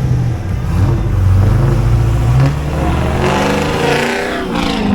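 Car engines in traffic: a deep, steady engine running, then about three seconds in a louder engine note that bends in pitch as a vehicle accelerates or passes close by.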